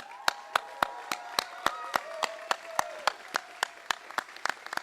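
Crowd applauding, with loud close claps about four times a second over more distant clapping. Voices hold drawn-out cheers for the first three seconds.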